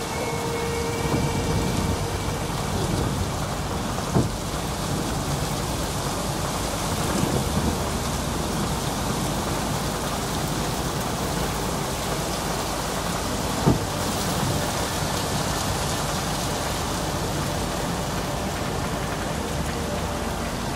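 Torrential rain pouring steadily in a strong wind during a summer cloudburst. Two short, sharp cracks stand out, about four seconds in and again about fourteen seconds in.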